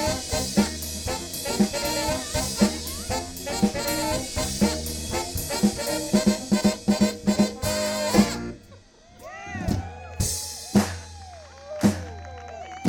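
Live band with horns and drum kit playing an up-tempo passage that cuts off sharply about eight seconds in. After the cut, a sparse groove follows: a drum hit about once a second over a low bass, with sliding melodic notes.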